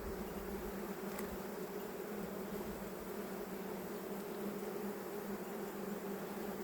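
Honeybees buzzing in a steady, even hum around an opened beehive.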